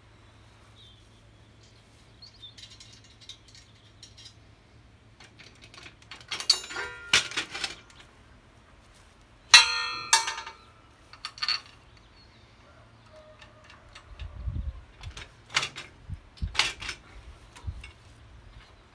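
Steel implement parts being handled: scattered clicks and knocks, with two loud ringing metal clangs about a third and half of the way in, and duller thumps later.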